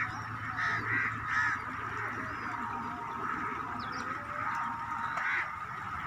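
Birds calling in short repeated notes, with a quick run about a second in and another near the end.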